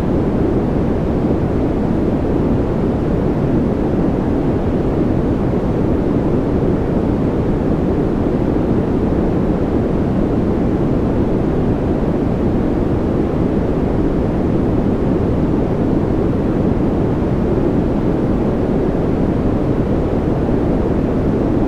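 Rain white noise: a steady, unchanging rushing noise, deeper than hiss, with no separate drops or other events.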